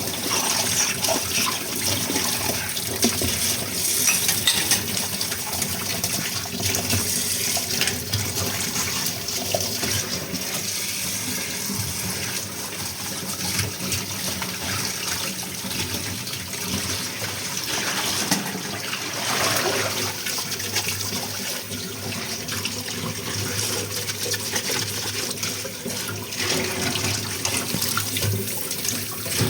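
Tap water running steadily into a kitchen sink while dishes are washed under it, with scattered small knocks and clinks of the dishes.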